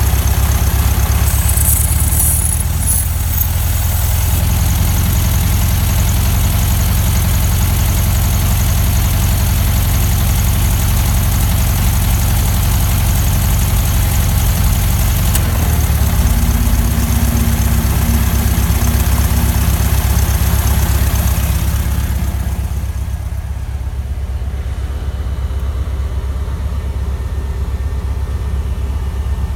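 The air-cooled flat-four engine of a 1969 Volkswagen Beetle running steadily, with a rushing noise over it that drops away about three-quarters of the way through.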